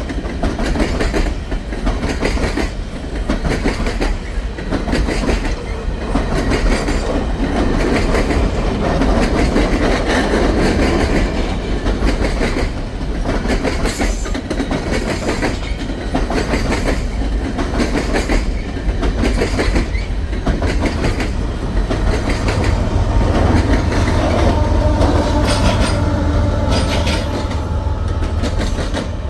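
Empty coal train cars rolling past, steel wheels clicking rhythmically over the rail joints over a steady rumble. Thin squealing tones join in over the last several seconds.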